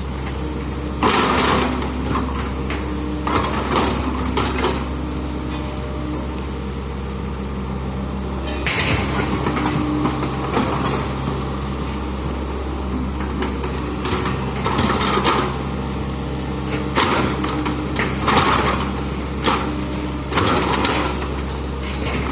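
Excavator's diesel engine running steadily, with repeated short bursts of noise every second or two over it.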